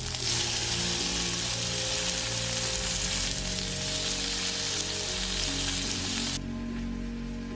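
Food sizzling in hot oil in a pan, a steady crackling hiss that cuts off suddenly about six seconds in.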